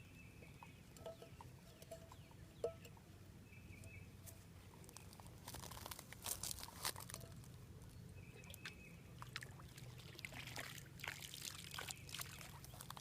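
Water being poured and trickling into a container, in uneven spurts that grow louder about halfway through.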